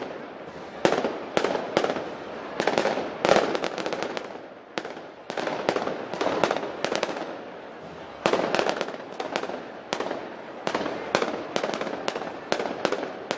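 Gunpowder bangs and cracks going off in quick, irregular succession, several a second, with a dense crackling haze between the louder reports.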